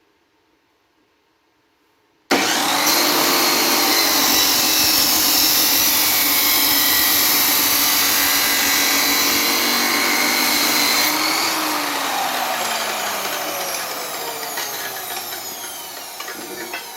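An electric angle grinder switches on about two seconds in and runs steadily at full speed, most likely grinding metal to open a gap for welding. Near the end it is switched off and winds down with a falling whine.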